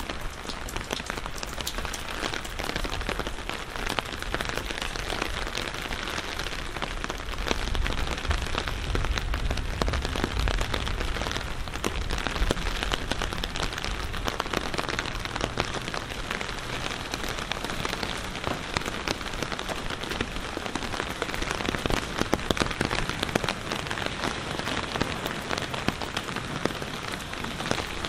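Steady rain falling, a continuous hiss thick with individual drop hits, with a low rumble swelling for a few seconds about a third of the way in.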